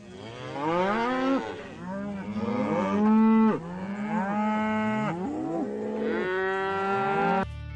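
Domestic cattle mooing: a series of long, drawn-out moos, several of them overlapping and sliding in pitch.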